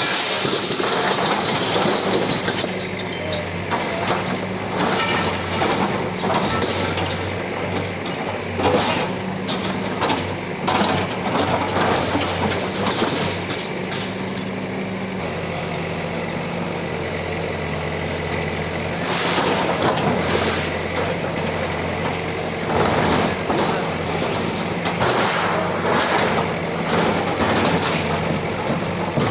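Heavy diesel engine of a bulldozer running under load, its pitch shifting down about halfway through, with repeated sharp cracks and crunches of a building being broken up.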